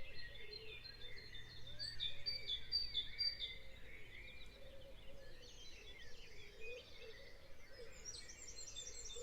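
Faint birdsong: many small birds chirping and twittering in quick, repeated calls.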